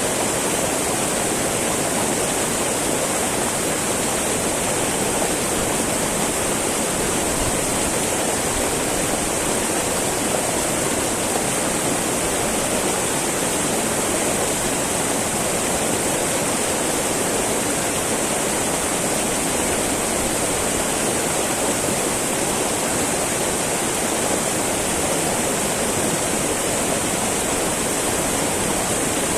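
Small mountain river babbling and rushing over rocks: a steady, unbroken wash of flowing water.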